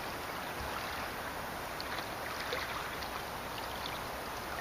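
Water trickling and splashing around a kayak being paddled, over a steady hiss.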